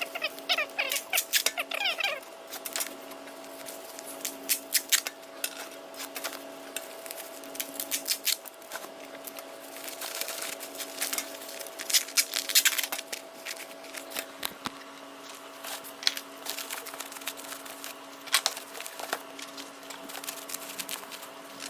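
Packing work: scattered clicks and bursts of clatter as items are handled, with short squeaks in the first two seconds, over a steady hum.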